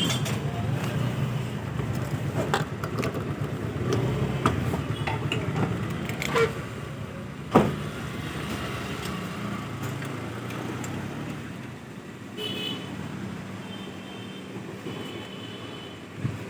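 Motorcycle engine running steadily under way, with wind and road noise, easing off in the last few seconds. A sharp click about halfway through, and several short high-pitched beeps near the end.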